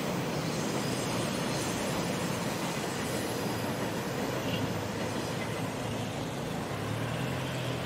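A train passing with a steady rumble of rail noise.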